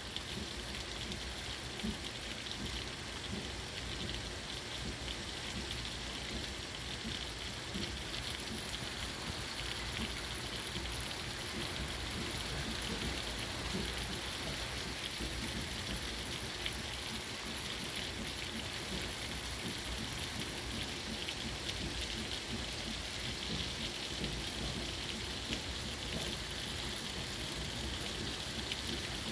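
Heavy tropical-storm rain falling steadily: a dense, even hiss with a fine patter of individual drops.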